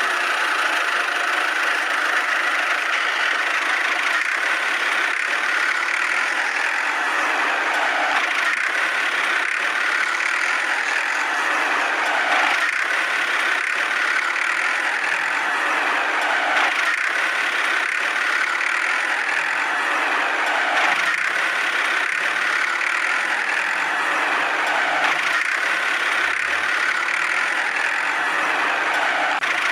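Small electric DC motor of a homemade toy machine running steadily, a continuous buzz without pauses and with little low end.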